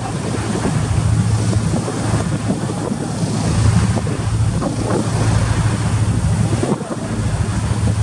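Steady low hum of the passenger ship KM Glory Mary's engines, with strong wind blowing across the microphone and the rush of the sea.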